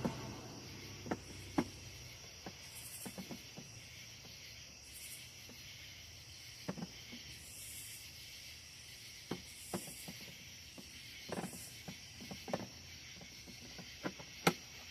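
Scattered plastic clicks and knocks of 20-volt battery packs being pushed down into a cordless lawnmower's battery compartment and handled, over a faint steady hiss.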